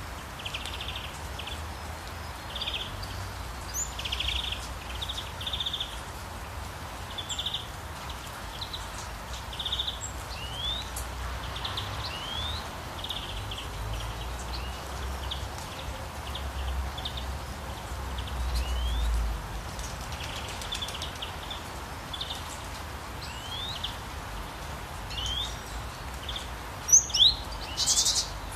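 Small birds chirping: many short calls and quick rising chirps, with two louder, sharper calls near the end, over a steady background hiss and a low rumble.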